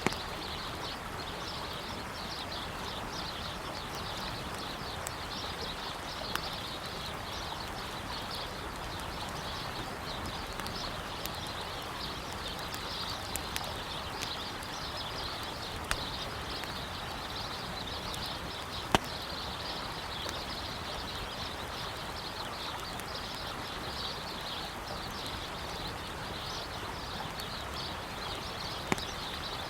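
River water flowing steadily, with birds chirping continuously and a wood campfire giving occasional sharp crackling pops, the loudest about two-thirds of the way in.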